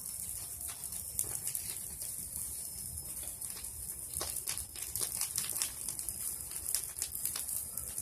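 Bonfire of pruned tree branches burning, with irregular sharp crackles and pops over a steady hiss.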